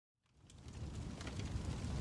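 Campfire crackling with scattered sharp pops over a steady low rumble, fading in from silence.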